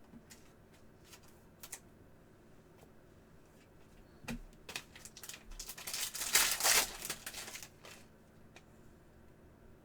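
Trading cards and their packs being handled: a few light clicks early on, then a run of crinkling and sliding rustles between about four and eight seconds in.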